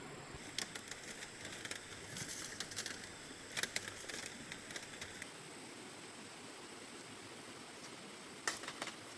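Scattered light clicks and rustles over a faint steady hiss, busiest through the first half and again briefly near the end.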